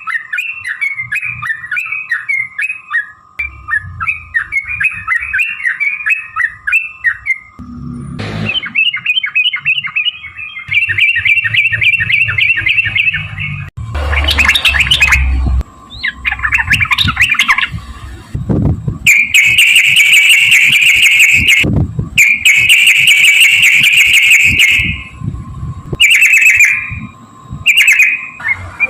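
Yellow-vented bulbul (trucukan) singing a long, rapid run of chattering, rolling phrases in its excited, fighting song, loud and harsh in places.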